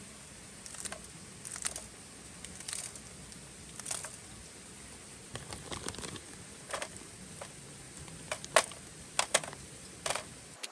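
Scattered light clicks and taps at irregular intervals over a steady background hiss, with a quick cluster of sharper clicks near the end.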